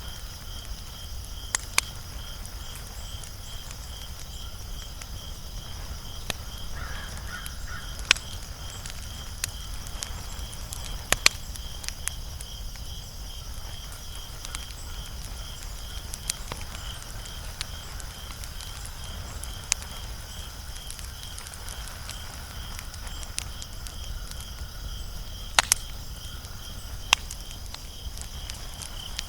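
Wood fire crackling, with sharp pops at irregular intervals, sometimes two close together. Behind it an insect, a cricket, chirps in a steady fast rhythm.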